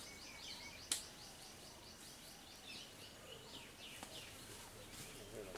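A bird calling in a rapid run of short, high, repeated notes, about five a second, for roughly three seconds, over faint outdoor background noise. A single sharp click sounds about a second in.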